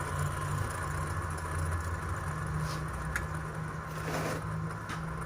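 An engine idling steadily, a low even hum, with a couple of faint clicks.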